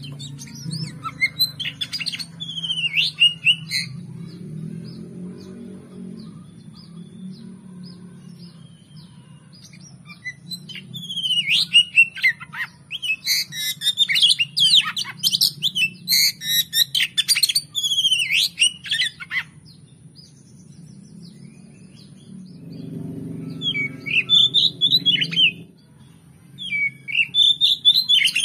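Oriental magpie-robin (kacer) singing loud, varied phrases of quick whistled notes and chatter in several bursts, the longest and densest in the middle. The song is laid over a steady low hum.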